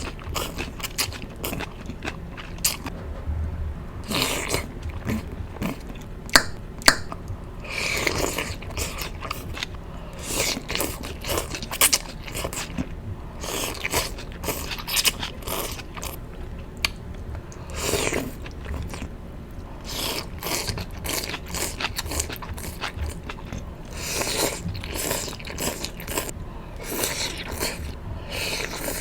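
Close-miked mouth sounds of someone chewing and biting miracle noodles (konjac noodles): an irregular run of short clicks, with a few sharper ones around six to seven seconds and twelve seconds in.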